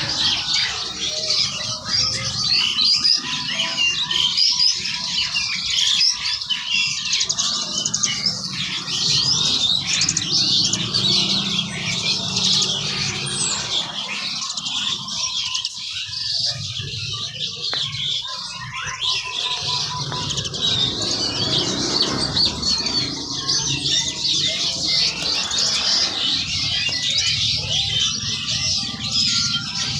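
Many caged birds chirping and calling at once, a dense, unbroken chatter of short high calls.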